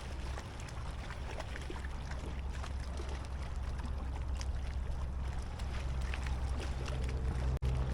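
Water lapping and trickling against a fishing kayak's hull, with small scattered splashes and ticks over a steady low hum.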